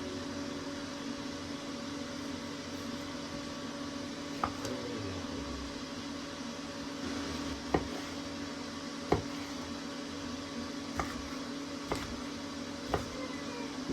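Steady electric appliance hum with a low tone, broken by a handful of sharp clicks or knocks about a second or two apart in the second half.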